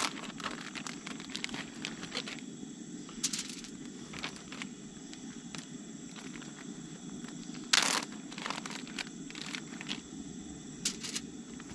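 Crinkling and tearing of plastic packaging with scattered clicks, as raw pork chops are unwrapped. The loudest rustle comes about eight seconds in. Under it runs the steady low rush of a camp stove burner heating oil in a pan.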